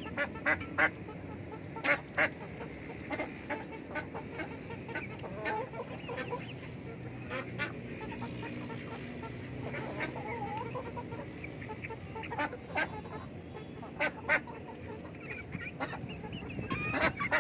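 Domestic chickens clucking as the flock feeds, with scattered sharp taps throughout and a busier flurry of calls near the end.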